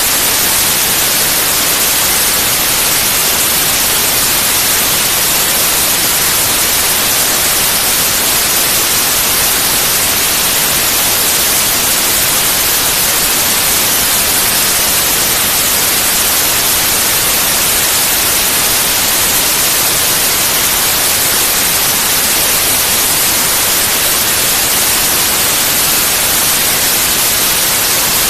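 Steady white noise: an even hiss, strongest in the treble, holding one constant level throughout.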